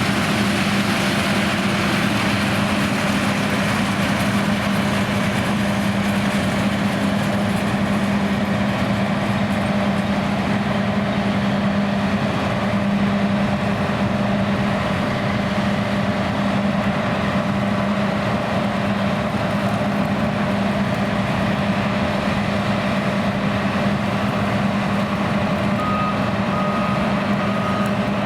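John Deere X9 1100 combine harvester running steadily under load with a constant low hum. Near the end a reversing alarm starts, beeping at an even pace.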